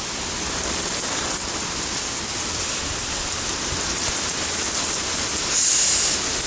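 Heavy rain of a thunderstorm downpour pouring steadily, an even hiss of rain picking up in intensity, with a short louder high hiss about five and a half seconds in.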